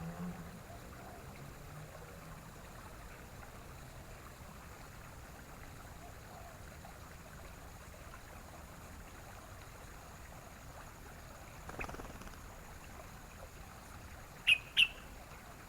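Steady hiss of background noise, broken near the end by two short, sharp chip notes about a third of a second apart from a yellow-vented bulbul (trucukan).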